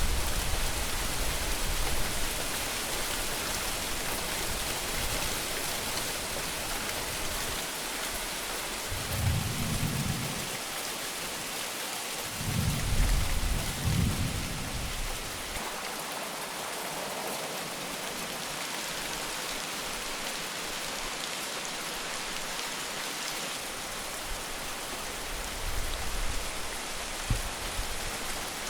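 Heavy rain falling steadily, with low rumbles of thunder rolling in now and then, the strongest about nine seconds in and again from about twelve to fifteen seconds.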